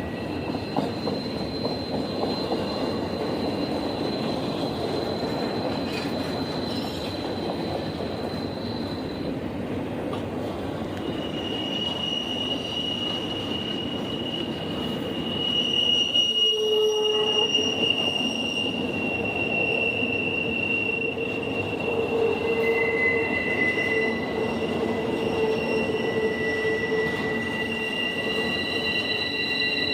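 A train rolling past with its steel wheels squealing against the rails: several long, steady high-pitched squeals over a continuous rumble, a little louder about halfway through.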